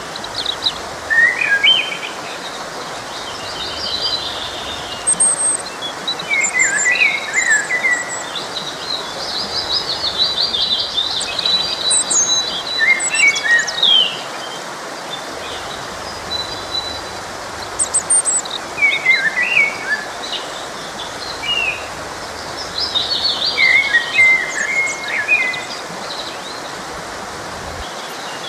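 Songbirds singing and chirping in repeated short high phrases, several at a time, over the steady rush of a forest stream.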